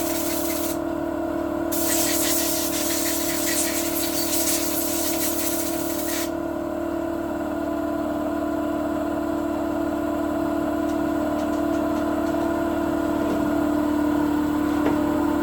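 Compressed-air blow gun hissing in two blasts, the first cut off just under a second in and the second lasting from about two to six seconds. Under it, the steady hum of an air compressor running.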